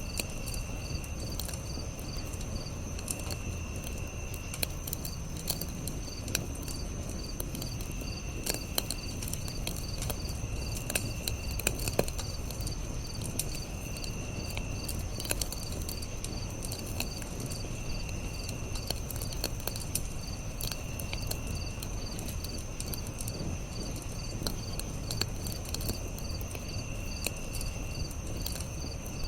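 Campfire crackling with scattered sharp pops, the loudest about twelve seconds in, over a low rumble of flame. Crickets chirp throughout in steady high trills, one continuous and one lower trill that comes and goes about every two seconds.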